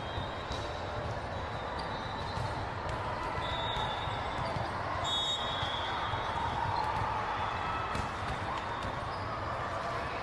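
Indoor volleyball play: a few sharp ball hits and short sneaker squeaks on the court floor, over a steady hubbub of spectators' voices.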